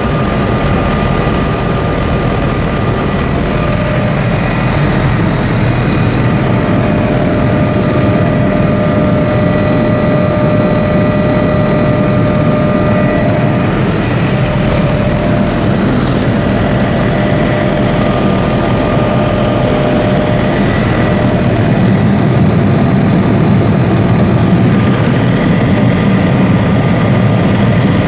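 Helicopter engine and rotor noise, loud and steady, with several steady whining tones over a low rumble.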